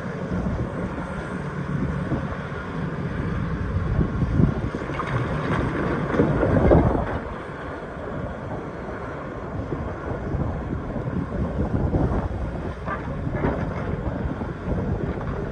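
Excavator diesel engine running under load, with several knocks and scrapes of the bucket working through rock; the loudest swell comes about six to seven seconds in.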